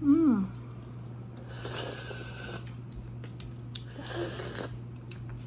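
Eating sounds of someone having balut: a hummed 'mmm' with a falling pitch, then two long, noisy breaths through the mouth or nose, the first about a second and a half in and the second about four seconds in, with a few small clicks between them. A steady low hum sits underneath.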